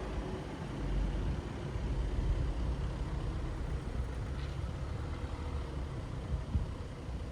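City street traffic at night: a steady low rumble of passing cars and heavier vehicles, swelling as a vehicle goes by about a second in.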